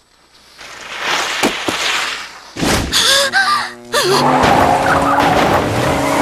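Cartoon racing-car engine whine from about four seconds in, its tones climbing slowly in pitch as the car accelerates, preceded by a short gasp-like voice sound.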